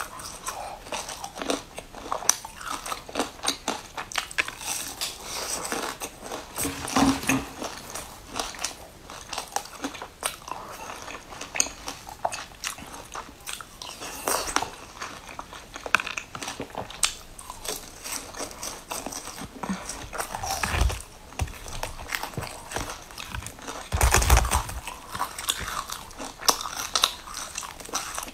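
A person biting and chewing crisp pastry, with irregular crackly crunches throughout. Louder, crunchier bites come about seven seconds in and again a few seconds before the end.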